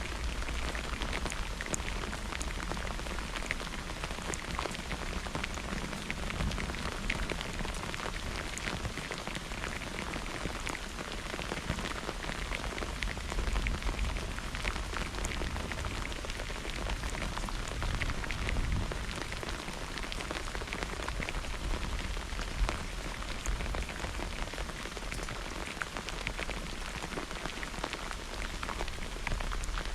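Steady rain falling on a hard surface, with many individual drops ticking close by and a low rumble underneath.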